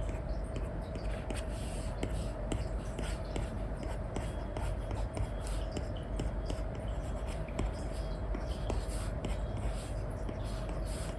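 Apple Pencil with an Elecom tip scratching and tapping across a paper-like screen protector on an iPad: quick short strokes and ticks in an irregular run, over a steady faint hum.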